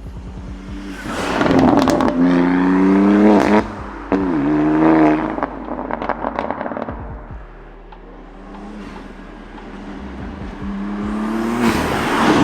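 BMW G82 M4's twin-turbo inline-six through an aftermarket exhaust, revving up hard twice with a quieter spell between. A burst of crackles and pops comes near the end.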